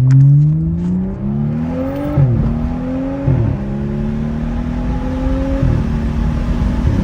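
2015 BMW 335i's turbocharged straight-six, with a catless downpipe, a muffler delete and the exhaust flap welded open, accelerating through the gears. The exhaust note climbs and drops at three upshifts, about two, three and a half, and six seconds in, then holds steady near the end.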